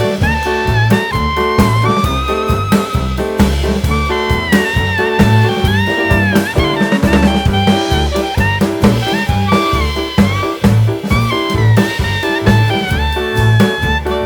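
Live band music: a high lead melody that bends and wavers with vibrato, played over a steady drum kit and bass beat.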